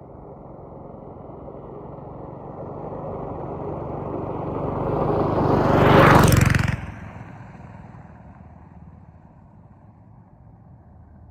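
Go-kart's Ariens AX 179cc single-cylinder snowblower engine running as the kart drives past: it grows louder for about six seconds, passes close, then drops away sharply and fades into the distance.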